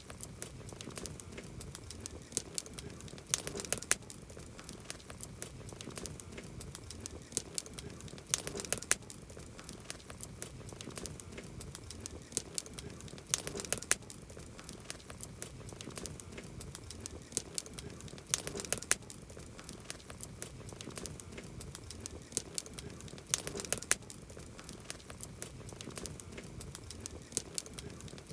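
Wood campfire crackling, with many sharp pops and snaps over a soft steady hiss; clusters of louder pops come about every five seconds.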